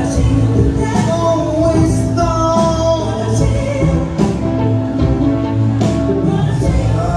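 Live band music: steady bass under sustained pitched notes, with a melody line that bends and rises in the middle.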